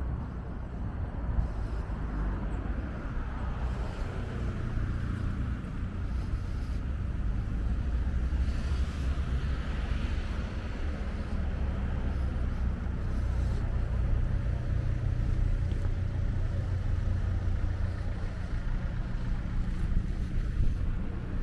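Street ambience with car traffic under a steady low rumble of wind on the microphone, and a car passing close by about halfway through.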